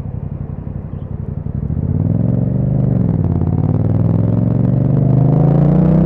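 2021 Yamaha MT-07's parallel-twin engine through an Akrapovic exhaust, pulsing at low revs, then pulling away about two seconds in. The revs dip briefly, then rise steadily.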